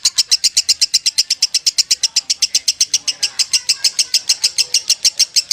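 Lovebird giving its 'konslet' ngekek: a long unbroken trill of sharp, high chirps at about ten a second, even in pace and loudness.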